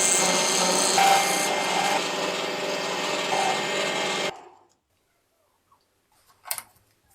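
A power tool running with a steady motor hum under a rough rubbing, abrasive noise. It stops abruptly about four seconds in, leaving near silence apart from one brief faint sound near the end.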